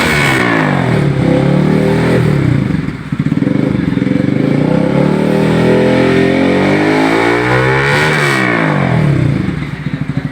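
Bajaj Pulsar RS200 single-cylinder engine through a loud aftermarket full-system exhaust, revving up and down with the pitch rising and falling several times and climbing highest about eight seconds in.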